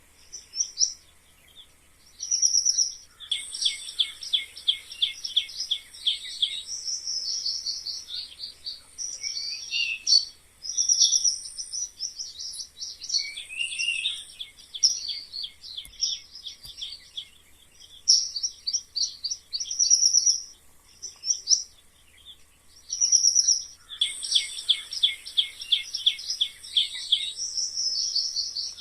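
Mice squeaking: runs of rapid, high-pitched squeaks and short chirps with brief pauses between them. The same stretch of squeaking comes round again about 21 seconds later, as a looped track.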